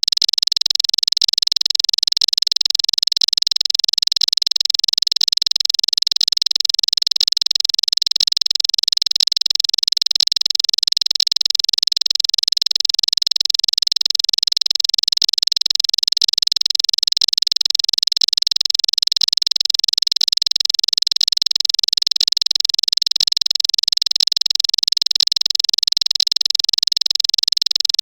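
Bar-winged prinia (ciblek) singing a continuous, rapid, high-pitched chattering song ('cetrekan') without pause, at a steady loudness.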